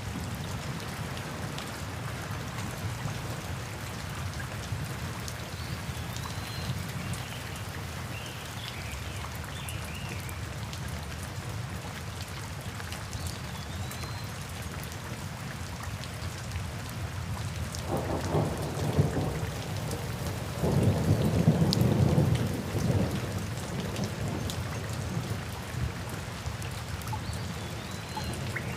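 Steady rain falling in a thunderstorm, with a roll of thunder about eighteen seconds in and a louder, longer rumble a few seconds later.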